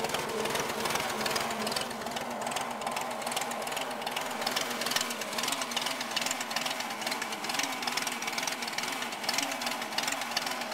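1953 Case VAC tractor's four-cylinder gasoline engine running steadily shortly after a cold start.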